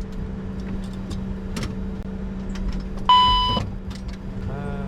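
Steady low hum in a Bombardier Challenger 605 cockpit, with the engines still idling and the APU running. About three seconds in, a single loud electronic beep lasting about half a second.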